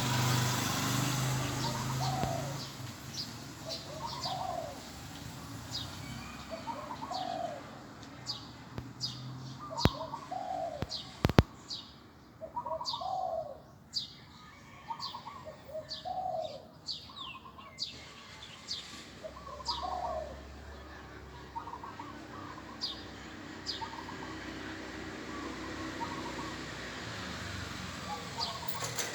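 A dove cooing over and over, a short phrase every couple of seconds, with higher bird chirps scattered through. Two sharp clicks stand out about ten and eleven seconds in.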